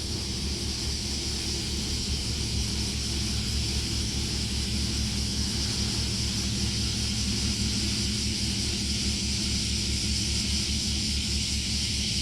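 Ferry's engine running with a steady, even low throb, under a constant high hiss.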